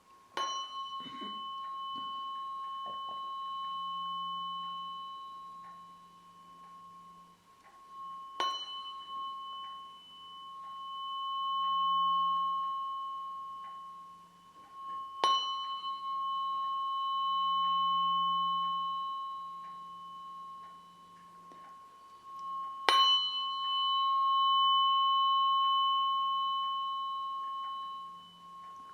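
Tuning fork struck four times, about every seven to eight seconds; each sharp tap is followed by a long, steady ringing tone that swells and fades.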